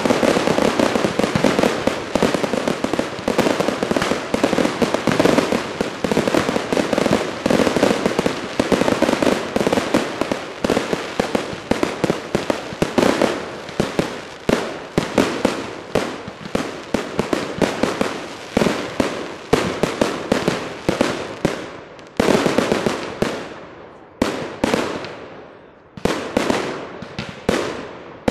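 Fireworks display: a rapid, dense barrage of bursting shells and crackling reports. After about twenty seconds it thins out into separate bangs roughly a second apart, each trailing away.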